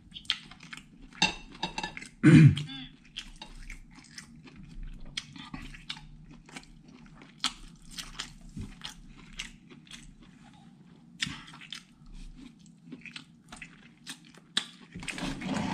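Close-up wet chewing and lip-smacking from a person eating satay with his fingers, with many short sharp mouth clicks. There is one short, louder throat sound about two seconds in.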